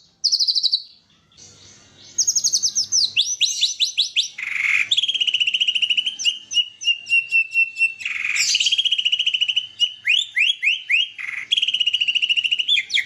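White-rumped shama (murai batu) singing a loud, varied song of rapid trills, quick rising and falling sweeps and rattling phrases, mixing in learned imitation phrases (isian). There is a short pause about a second in, and a few brief harsh notes are scattered through the song.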